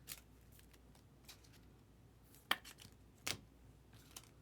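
Trading cards being handled and set down: a few sharp clicks and taps, the loudest two a little under a second apart midway through.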